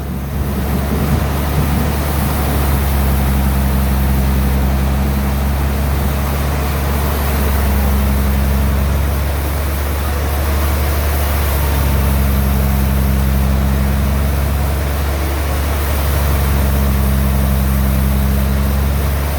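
Sawmill bandsaw running: a steady low machine hum with a higher tone that swells and fades every few seconds, over a constant wash of noise.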